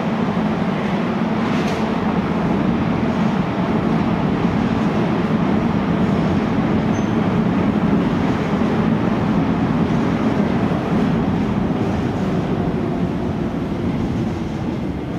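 Keikyu 600 series electric train pulling away from a station, a steady rumble of wheels on rail and traction motors that eases off near the end as it draws away.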